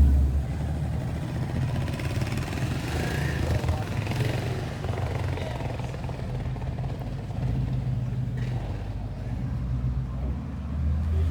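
Car engine running steadily at low revs, a deep rumble with a fast, even pulsing, likely a V8, with faint voices in the background.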